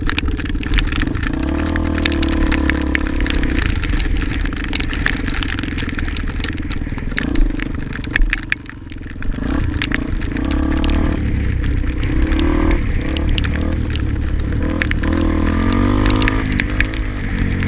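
Motorcycle engine rising and falling in pitch as it is ridden, easing off briefly about eight seconds in, with frequent sharp clicks and clatter throughout.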